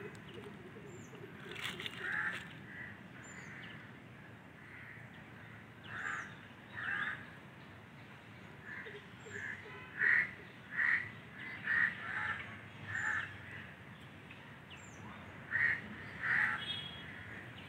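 Birds calling: short, harsh calls repeated at uneven intervals, coming thickest in a quick run of five about ten seconds in and a pair near the end, with faint, high, thin chirps scattered between.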